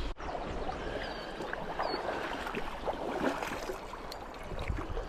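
Creek water flowing, a steady rushing hiss with small scattered ticks, and a brief faint high chirp about two seconds in.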